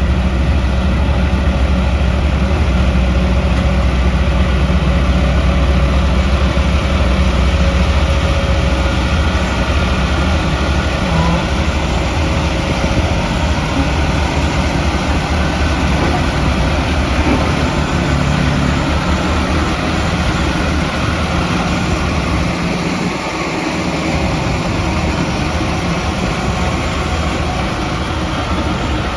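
Heavy diesel construction machinery running steadily with a deep engine hum; the low hum eases off a little over twenty seconds in.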